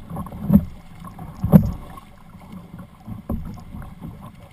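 Open Canadian canoe being paddled, heard from a camera mounted on the boat: a low watery background broken by dull thumps every second or so.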